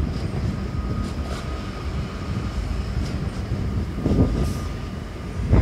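Trains rolling past at a distance: a steady low rumble of wheels and running gear on the track, with a faint steady whine and a few light clicks.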